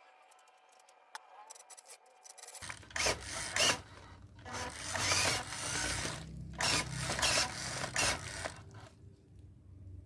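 Rasping, rubbing mechanical sound in three bursts of a second or two each, over a low hum that starts about two and a half seconds in.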